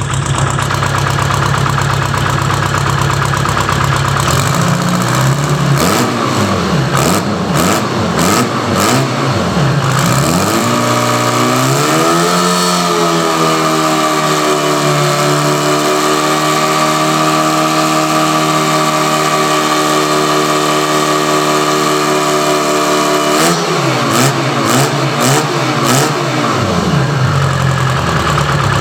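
Detroit Diesel 4-53 four-cylinder two-stroke diesel engine running: idling, revved up and down several times, then run up and held at high speed for about ten seconds before dropping back to idle.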